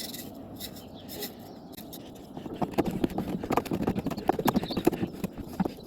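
A quick, irregular run of light knocks and clatter from parts of an evaporative (swamp) cooler being handled and fitted into place, starting about halfway in and stopping just before the end.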